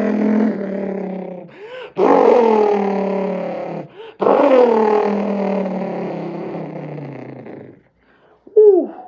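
A person's voice imitating a twin-turbo supercar engine, meant as the Saleen S7 Twin Turbo. It holds three long revving notes, each starting high and sliding down in pitch, with short up-and-down chirps between them and a quick chirp near the end.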